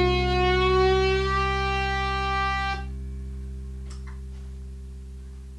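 The song's final chord ringing out on guitar and the band's instruments. The higher notes stop about three seconds in while the low notes keep sounding and slowly fade, with a couple of faint clicks partway through.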